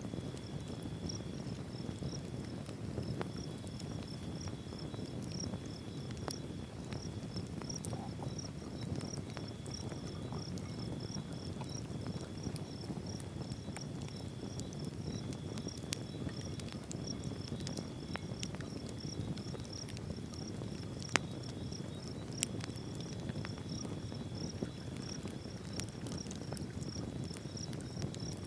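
Insects chirping steadily in the forest: one high, regular pulsed song and a lower one that comes and goes in stretches, over a low steady rush. A few sharp clicks or snaps stand out, the loudest about two-thirds of the way through.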